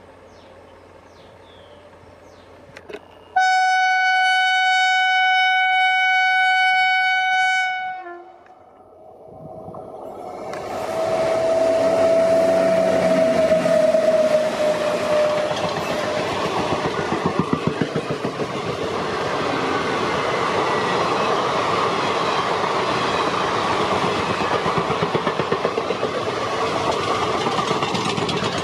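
WAG-9 electric locomotive sounding its air horn in one steady blast of about four and a half seconds, then the train passing close at speed: a falling tone as the locomotive goes by, then the steady rumble and rhythmic clickety-clack of the passenger coaches' wheels over the rail joints.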